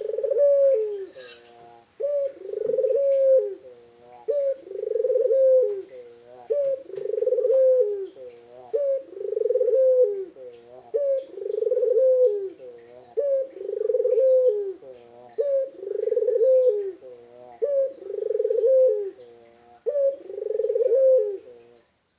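Domesticated puter dove (collared dove) cooing repeatedly: about ten two-part coos, a short note then a longer rolling one, roughly one every two seconds.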